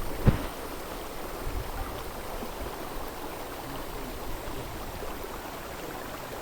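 A river flowing steadily over its stony bed, with one short low thump shortly after the start.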